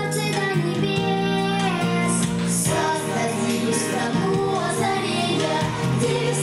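Children singing a song over instrumental backing music.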